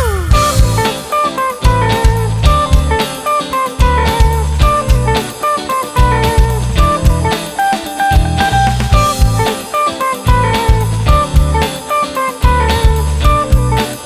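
Indie band playing an instrumental intro: a drum kit keeps a steady beat under bass and a repeating picked electric guitar riff, opening with a downward pitch slide.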